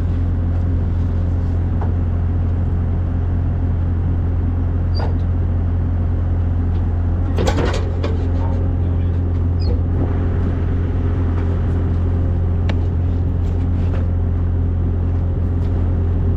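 Vehicle engine running steadily with an even low drone, no revving. A brief clatter comes about seven and a half seconds in, with a few faint high chirps.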